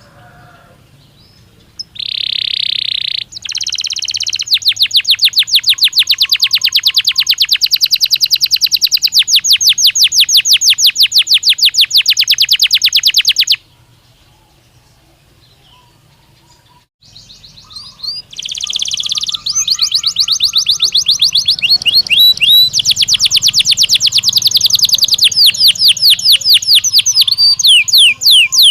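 Domestic canary singing two long phrases of fast, even trills, about ten seconds each, separated by a pause of a few seconds. The second phrase has rising, sweeping notes woven into the trill.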